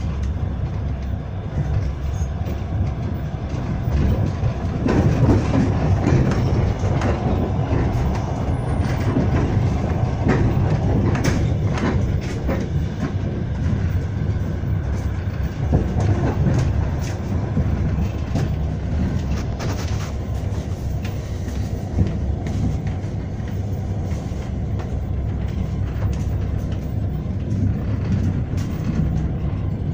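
Moving train heard from inside the carriage: a steady rumble of wheels on the track, with irregular clicks as the wheels pass over rail joints.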